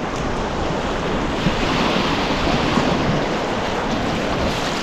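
Steady rush of river water, mixed with wind on the microphone.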